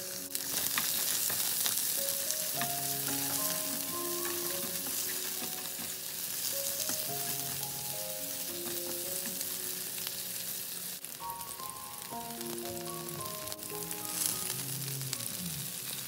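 Sliced onions sizzling in hot oil in a nonstick frying pan, a steady hiss, with the occasional scrape or tap of a spatula stirring them. Soft background music plays a simple melody underneath.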